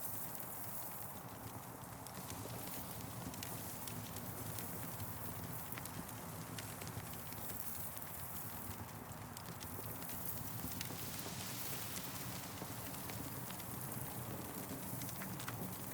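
Campfire crackling: scattered sharp pops and snaps over a steady rushing hiss that swells now and then.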